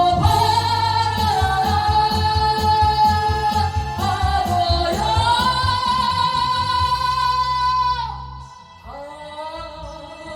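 A song with a female singer holding long notes over a steady bass beat, in two long phrases; the music drops back quieter about eight seconds in.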